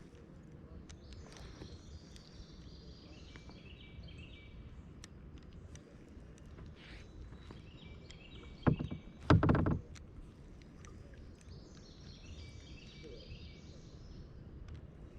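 Birds singing at intervals over a low steady outdoor background, and two thumps a little past the middle, the second longer and the loudest sound here.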